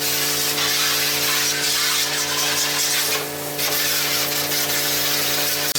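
A power tool's motor running steadily with a strong hiss, the hiss easing briefly about three seconds in.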